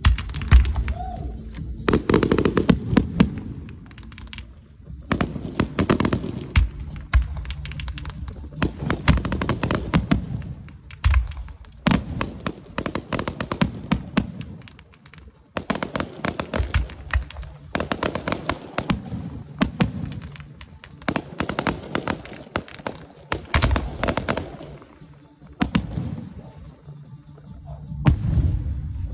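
Aerial fireworks bursting: low booms and dense runs of sharp crackling cracks, in volleys a few seconds long, one after another.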